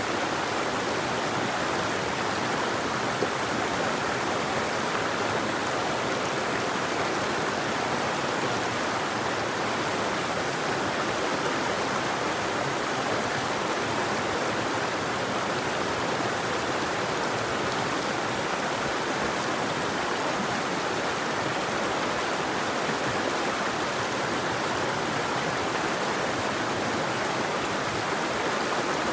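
River water flowing in a steady, even rush, with no changes or separate events.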